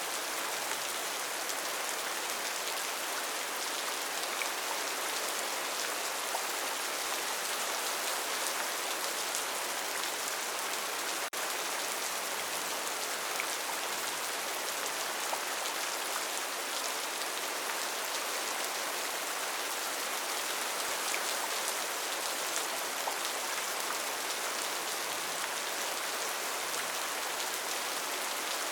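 Steady rainforest rain: an even hiss of rainfall with scattered single drops ticking through it, and one brief dropout about eleven seconds in.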